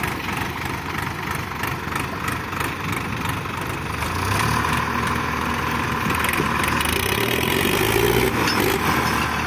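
Modified tractors' diesel engines running hard under load, pulling against each other in a tug-of-war. About four seconds in the engine sound grows louder and its pitch climbs a little.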